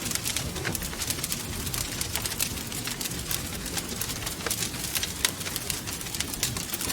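Wood fire crackling, with many quick sharp pops scattered irregularly over a steady low rush of wind.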